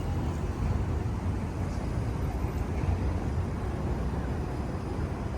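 Steady urban outdoor ambience: an even, low rumble of city traffic.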